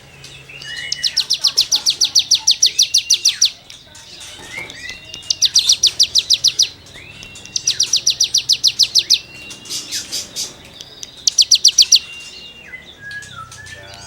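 Ciblek gunung (a prinia) singing: five bursts of fast, scratchy trills, each note repeated about ten times a second for one to three seconds, separated by short slurred whistles.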